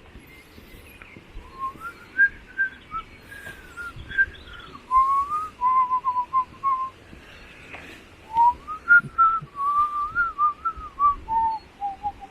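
A person whistling a tune: two phrases of single clear notes moving up and down, with a short break between them.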